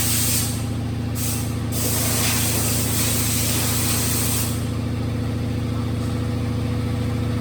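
Compressed air hissing from an air tool, such as a spray gun, over a steady machine hum. The hiss breaks off briefly about a second in, resumes, and stops about four and a half seconds in while the hum carries on.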